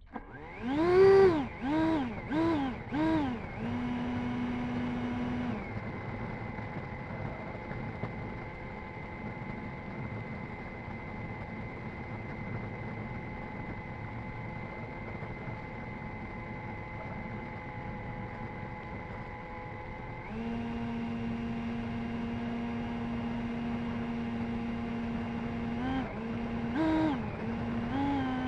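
Electric ducted fan of an E-flite F-16 70mm EDF jet blipped up and down four times in quick succession, then running steadily with a pitched electric whine. The pitch steps to a new steady note about twenty seconds in, with two short blips near the end.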